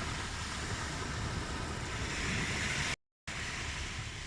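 Ocean waves washing onto a shore in a steady rush, one wave swelling louder about two seconds in. The sound cuts out completely for a split second just before three seconds, then resumes.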